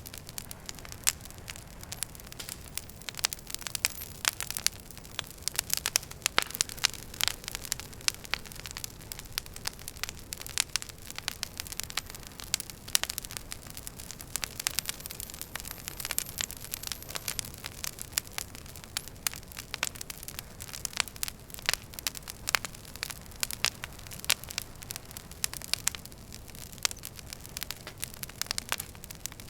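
Wood fire crackling in a fireplace: many irregular sharp pops and snaps over a steady low hiss.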